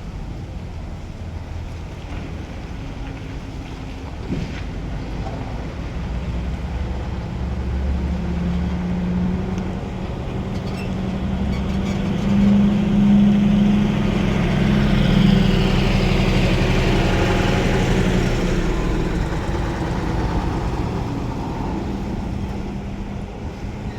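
Heavy truck's diesel engine running, growing louder about midway and easing off toward the end.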